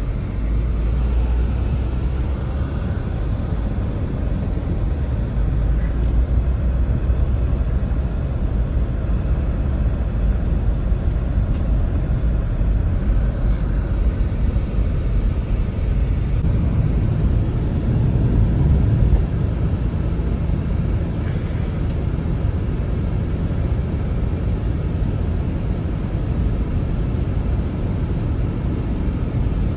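Strong blizzard wind blowing, a steady low rumble that swells a little past halfway. A few faint ticks sound through it.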